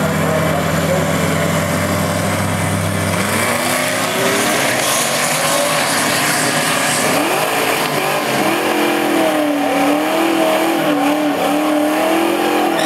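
Drag-strip engines. Engines idle steadily, then about three seconds in a pickup truck launches, its engine revving up with shifts as it pulls away down the track. From around the middle, a nearby car's engine runs with a rhythmic, wavering rise and fall in pitch as it rolls toward the start line.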